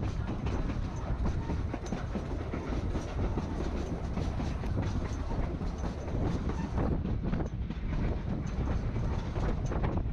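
Narrow-gauge passenger train heard from on board while under way: a steady rumble of the cars with wheels clicking and knocking over the rail joints.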